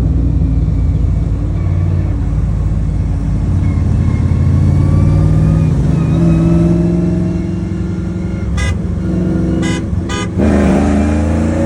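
V8 pickup truck engine accelerating hard at full throttle, its pitch climbing as the revs rise. Near the end, three short sharp sounds come, then the pitch drops and climbs again as it pulls through the next gear.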